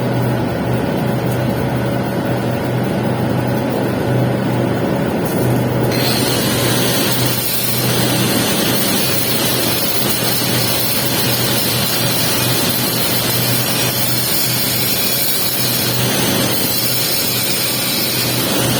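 Stick-welding arc crackling steadily while a pipe capping pass is run, over a steady low machine hum.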